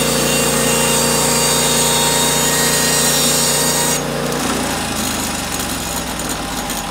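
Norwood HD36V2 portable bandsaw mill running, its engine note steady under the hiss of the band blade sawing wood. About four seconds in the hissing cutting noise drops away, and the engine then settles to a lower, quieter note.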